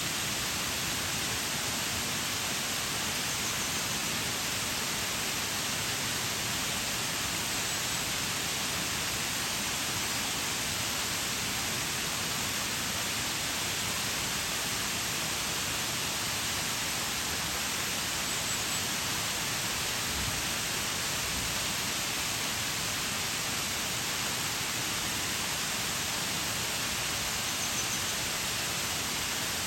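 Shiraito Falls waterfall: water falling and splashing in a steady, unbroken hiss that does not change in level.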